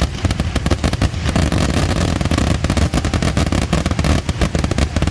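Fireworks going off in a dense, rapid barrage: many sharp bangs and crackles a second overlapping over a low rumble.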